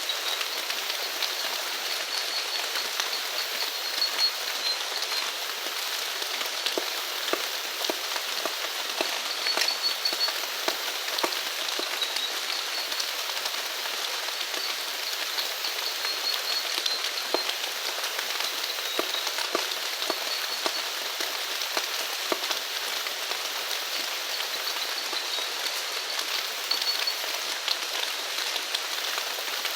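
Steady rain falling, with individual drops ticking close by. Short high chirps from a small animal recur every couple of seconds over the rain.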